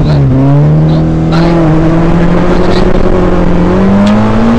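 Peugeot 106 FN2 rally car's four-cylinder engine heard from inside the cabin, accelerating hard. Its pitch dips briefly at a gear change right at the start, then climbs steadily through one long pull in the next gear, with a few short sharp knocks along the way.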